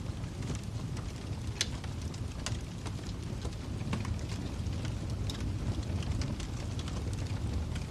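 Wood fire crackling in a fireplace: a low steady rumble of burning, with irregular sharp pops and snaps from the logs.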